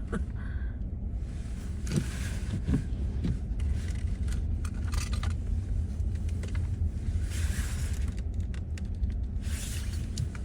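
Steady low rumble of a car moving, heard from inside the cabin, with a few swells of tyre hiss.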